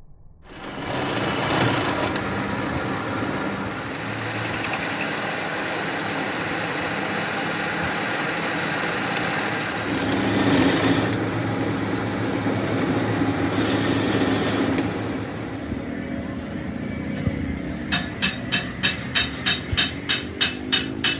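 A machine running steadily with a mix of steady tones and noise, and about three seconds from the end a sharp, regular knocking at roughly two strokes a second.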